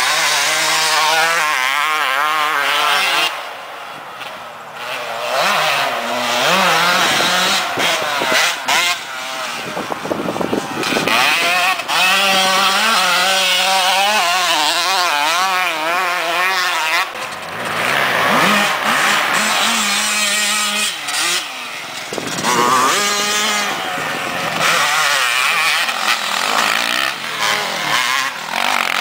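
Motocross dirt bike engines running hard, the pitch climbing and falling again and again with throttle and gear changes. The engine noise drops back for a couple of seconds about four seconds in, then picks up again.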